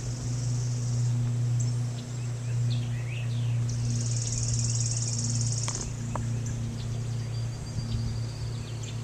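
A steady low mechanical hum runs under birds chirping, with a high buzzing trill from about three and a half seconds to six seconds in.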